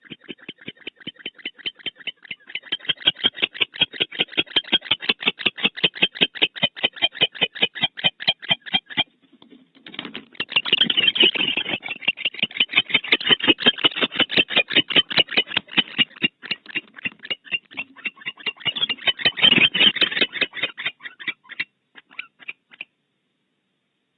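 Barn owl giving a rapid chittering call, a fast train of clicks about ten a second. It breaks off briefly about nine seconds in, then resumes and stops near the end.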